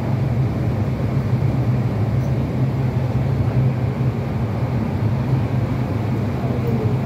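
Steady running noise of an MTR East Rail line R-train electric multiple unit, heard from inside the carriage at speed: an even rumble of wheels on rail with a steady low hum.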